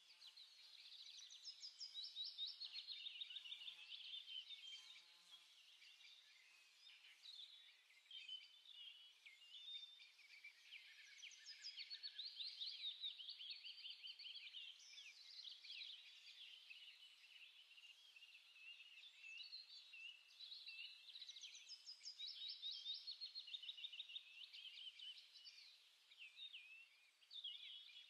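Faint birdsong: a chorus of small birds chirping and trilling without a break.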